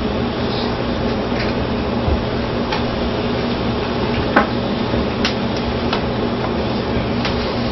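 Potatoes being peeled by hand: a few short, sharp scraping clicks, spaced a second or so apart, over a steady low hum.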